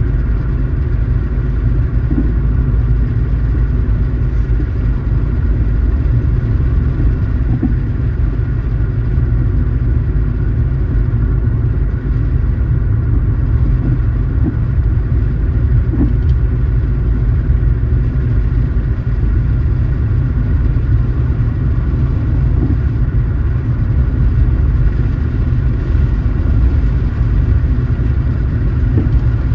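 A car driving at a steady speed: a steady low rumble of engine and road noise that does not change.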